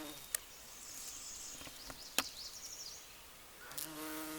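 Bumblebee buzzing in flight, a steady low hum that fades out just after the start and comes back near the end. In the gap, faint high chirps and two sharp clicks.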